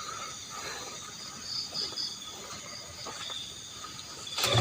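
Night insects chirping: short pulsed trills come and go over a steady high insect hum, with a few faint ticks of handling.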